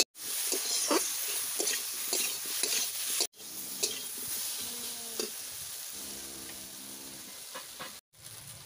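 Potato and raw-banana pieces sizzling in hot oil in a metal kadai. A spatula scrapes and stirs them with quick repeated strokes during the first three seconds, and the sizzling runs on after that.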